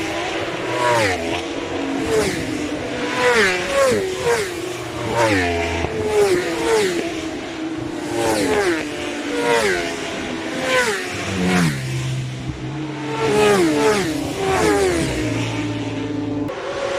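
1000cc superbike racing motorcycles speeding past one after another at high revs. The engine notes rise and then fall in pitch over and over as each bike goes by.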